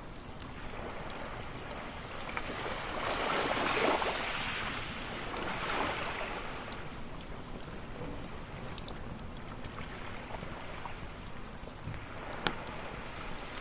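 Waves washing onto a beach: one swells to its loudest about four seconds in and a smaller one follows about two seconds later. Under them runs the light crackle of a campfire, with a single sharp pop near the end.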